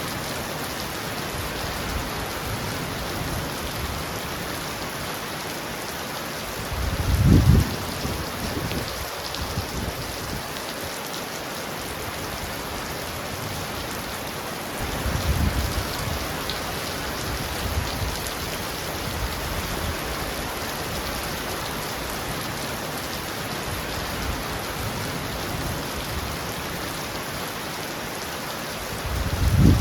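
Heavy rain falling steadily on a roof, an even hiss. Low rumbles of thunder break in about seven seconds in, more softly around fifteen seconds, and loudly again near the end.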